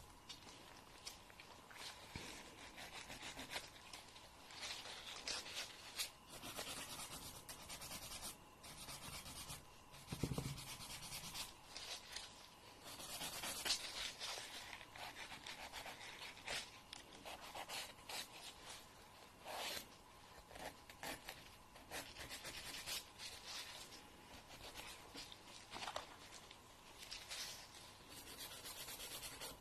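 Fingernails being filed in irregular rasping strokes. There is a soft low bump about ten seconds in.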